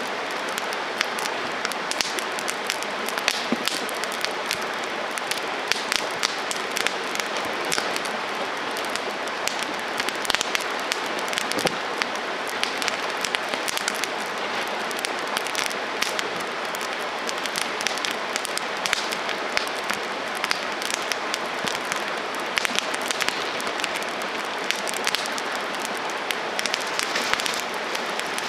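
Wood campfire burning: a steady hiss with many sharp crackles and pops from the burning wood.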